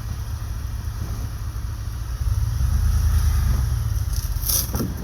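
Ford F-150 pickup engine running, a steady low rumble that swells louder about two seconds in and eases off again near the end.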